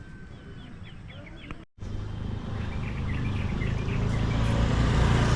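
Small birds chirping quietly, then, after an abrupt cut, a steady low motor-vehicle engine hum over outdoor noise that grows louder, with a few bird chirps on top.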